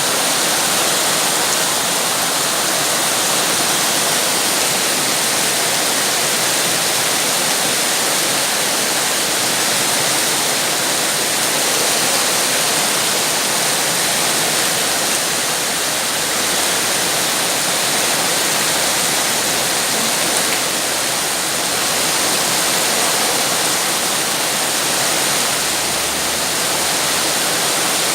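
Rain falling steadily, a constant even hiss with no breaks or single drops standing out.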